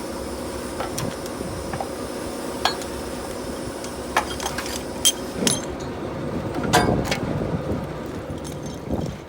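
Scattered metallic clinks and knocks, a few of them sharp and loud, over a steady running-engine hum.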